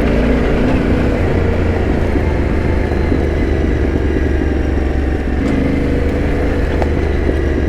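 Yamaha Ténéré 700's parallel-twin engine running steadily at low speed as the bike is ridden along a lane, with a slight change in engine note about two-thirds of the way through.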